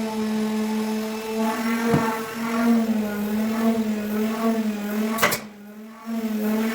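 Electric power tool motor running steadily with a steady hum, a few sharp clicks, and a brief cut-out about five and a half seconds in before it runs again.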